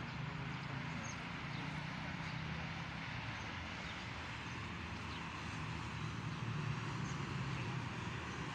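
Outdoor city ambience: a steady low hum of distant traffic with a few faint bird chirps.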